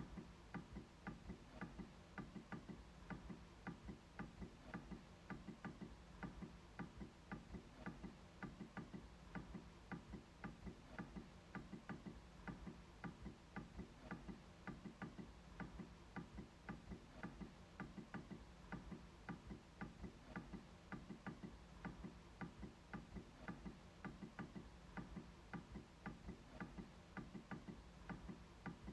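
MacBook trackpad clicking in a quiet, steady run of evenly spaced clicks, about three or four a second.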